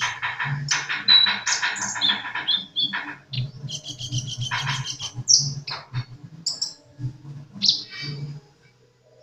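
A sunbird (kept as 'kolibri') singing vigorously: fast buzzy trills run into quick high chirps and short sliding notes, in bursts, tailing off near the end. A faint low throb runs underneath.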